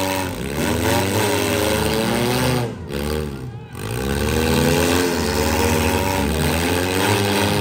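Engines of stock demolition derby cars revving hard, their pitch climbing and falling again and again as the cars accelerate, reverse and ram. The engines ease off briefly about three seconds in, then rev up again.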